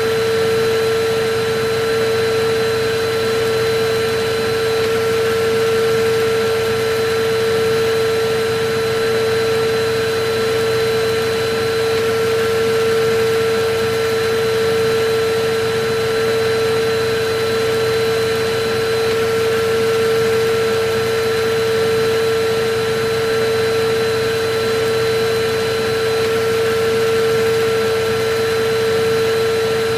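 Electric vacuum cleaner running steadily: an even rushing noise with a constant whine over it.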